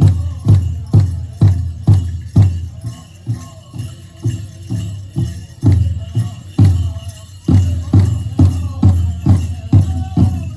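Powwow big drum struck in a steady beat about twice a second by a drum group, with men's singing faint over it, swelling near the end. A jingling runs with the drumbeat.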